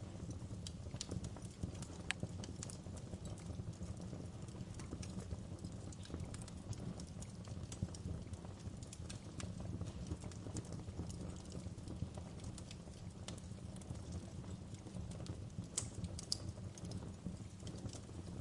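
Wood fire burning: a steady low rumble with irregular crackles and pops, one sharper pop near the end.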